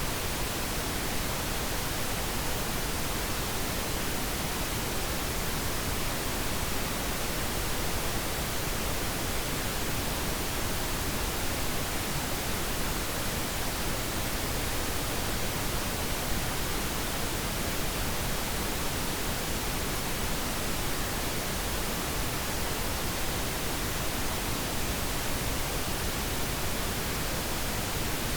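Continuous pink noise: a steady, even hiss that does not change.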